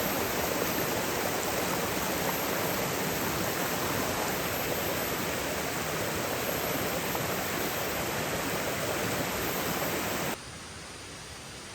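Steady rushing water noise, heavy rain or a river running hard. About ten seconds in it drops abruptly to a quieter hiss.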